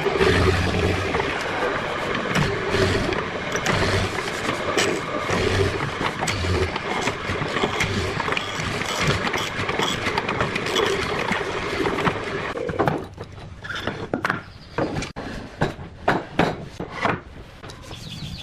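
A woodworking power tool running steadily for about thirteen seconds, then stopping, followed by a run of separate sharp knocks.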